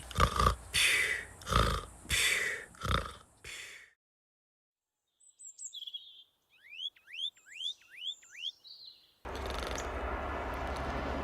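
A quick run of about six rough, noisy bursts, then a moment of silence. A small bird then chirps, ending in five quick rising notes. Near the end a steady outdoor background hum comes in.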